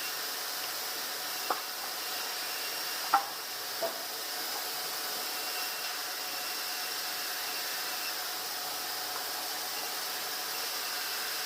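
Steady hissing run of a sawmill log bandsaw, with a faint high whine. Three sharp knocks come at about one and a half, three and four seconds in; the middle one is the loudest.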